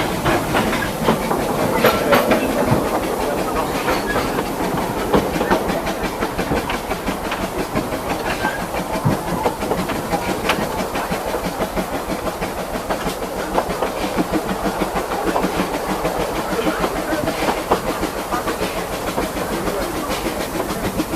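Vale of Rheidol narrow-gauge steam train running uphill, heard from aboard: a steady rattle and rumble of the coach, with irregular clicks and knocks from wheels on rail.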